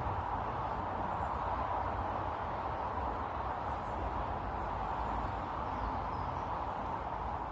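Steady outdoor background noise with a low rumble, and a few faint, high bird chirps over it.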